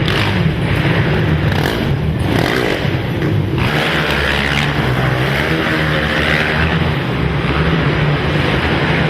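Racing quad (ATV) engines revving on the track, their pitch rising and falling as the riders work the throttle.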